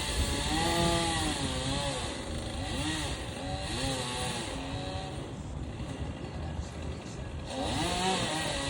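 Chainsaw running with its engine pitch rising and falling again and again as the throttle is worked, easing off for a couple of seconds past the middle and revving up again near the end.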